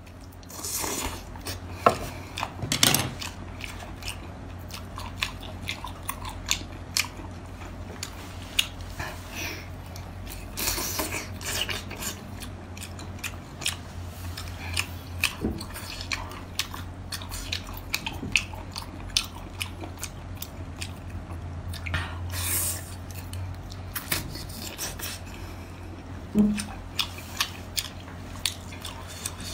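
Close, wet chewing and biting of whole braised baby octopus: many short, irregular mouth clicks and smacks over a low steady hum.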